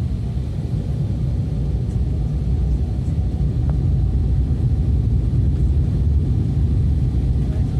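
Steady low rumble of an airliner's cabin noise during its descent to land: engine and airflow noise heard from inside the cabin.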